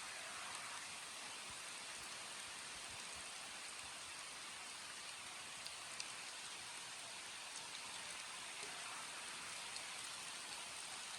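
Steady rain falling, an even hiss with a few distinct drops ticking now and then.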